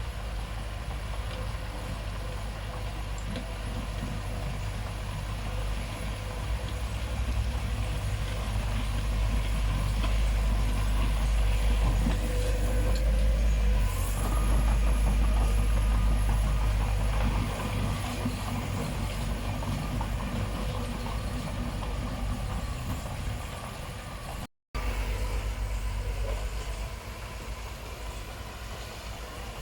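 Heavy diesel engine of construction machinery running, a deep rumble that grows louder for several seconds mid-way, then eases back; the sound cuts out for an instant about three-quarters of the way through.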